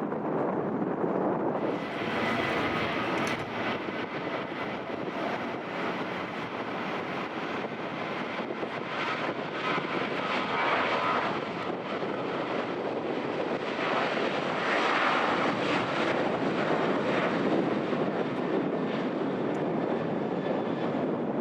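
Jet engine noise from a Boeing 737-800 airliner's CFM56 engines, steady and without pause. About two seconds in the sound changes to a brighter, fuller noise with a faint high whine, and it swells louder twice later on.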